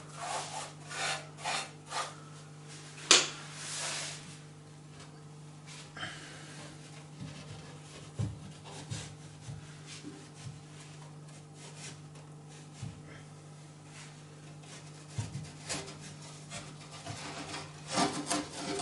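Stiff brush scraping ash and soot out of a fireplace firebox, in quick repeated strokes, with a sharp knock about three seconds in. It then goes quieter, with a few light knocks, and the scraping strokes pick up again near the end.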